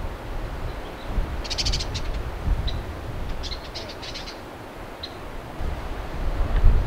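A bird giving two short bursts of rapid, high chattering calls and a few single chips, over a steady low wind rumble that grows louder near the end.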